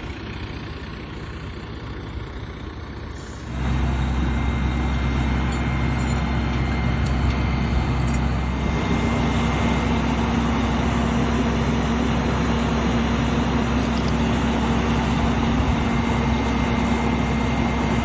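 Truck engine running, stepping up suddenly to a louder, steady run about three and a half seconds in.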